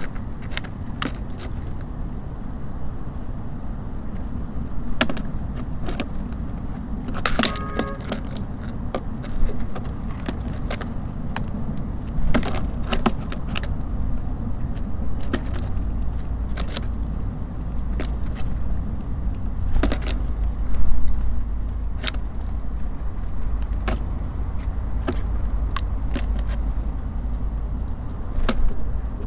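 Small birds pecking and hopping at a bird feeder: frequent sharp irregular taps and clicks, with one louder knock about two-thirds of the way through, over a steady low rumble of city traffic.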